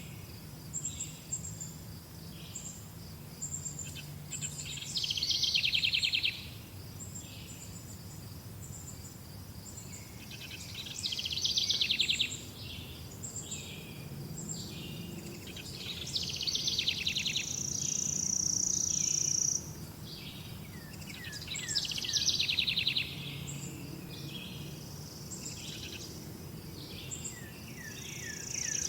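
Several songbirds singing and chirping: a steady series of short high chirps, with louder trilled phrases every few seconds and a held high whistle partway through. A faint low background rumble runs underneath.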